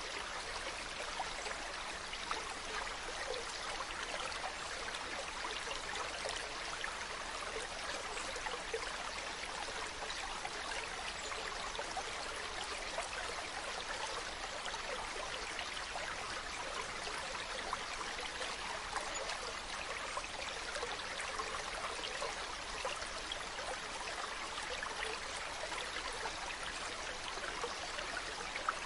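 Mountain stream running over rocks: a steady rush of water with a fine trickling texture, unchanging throughout.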